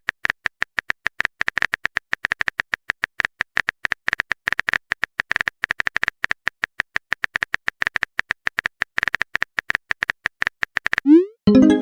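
Text-typing sound effect: a fast run of short clicks, about ten a second, as a chat message is typed out. The clicks stop about a second before the end, and a short pitched pop follows.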